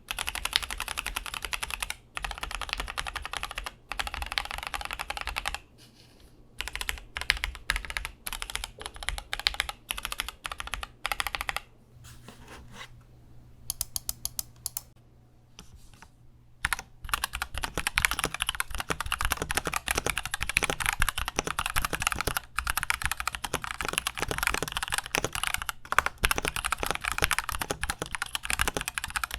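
Mechanical keyboard with Gateron Milky Yellow linear switches being typed on: fast, continuous key clacks, thinning to separate keystrokes and then a brief lull with a few faint clicks in the middle, before fast steady typing resumes for the rest.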